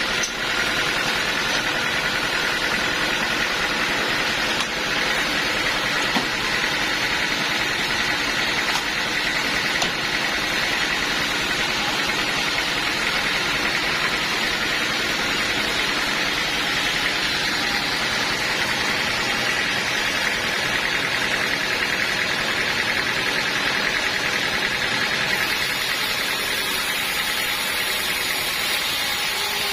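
Sawmill machinery running steadily and loudly, a constant mechanical noise with a faint high whine, typical of a mill sawing a teak log.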